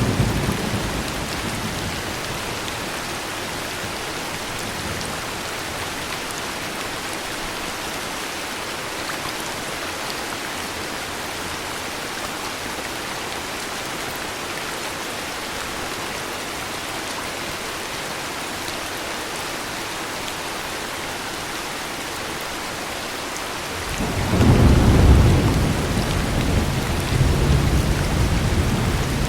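Heavy rain falling steadily with an even hiss. The tail of a thunder rumble fades in the first moments, and about 24 seconds in a loud deep thunder rumble breaks in and rolls on to the end.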